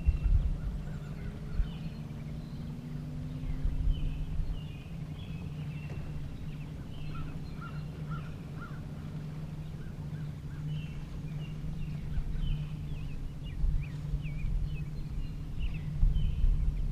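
Birds chirping in many short, repeated calls over a steady low motor hum; a low tone slowly rises in pitch during the first few seconds.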